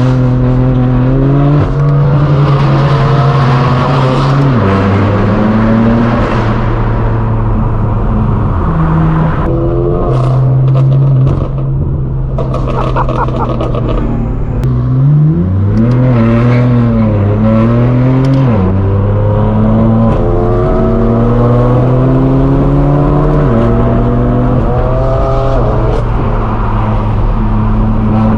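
Straight-piped BMW M4 F82's twin-turbo inline-six exhaust (AWE Track Exhaust, non-resonated) under way: the pitch climbs as it accelerates, drops at each upshift and holds steady while cruising, with a quick rise and fall in revs about halfway through.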